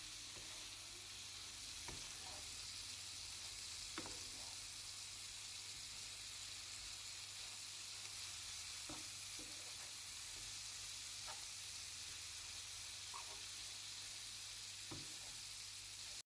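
Wild asparagus and egg sizzling in olive oil in a frying pan, a steady hiss with a few light clicks and taps scattered through it.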